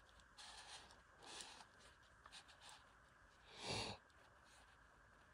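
Faint, intermittent scratching and rustling of nylon trimmer line being wound by hand onto a string trimmer spool, with one louder swish of rubbing about two-thirds of the way in.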